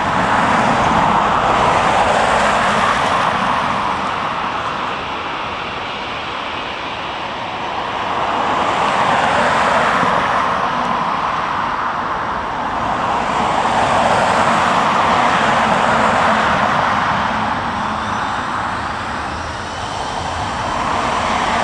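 Steady rushing vehicle engine noise that swells and fades every few seconds, with a faint rising whine that begins near the end.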